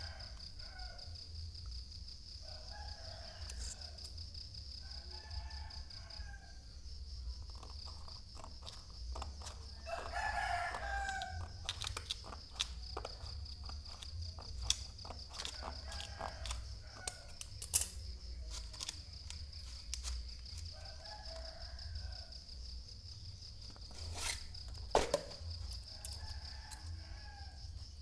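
A rooster crows about six times, each call roughly a second long, over a steady high insect trill. Scattered sharp clicks and knocks come in between, two of them louder in the second half.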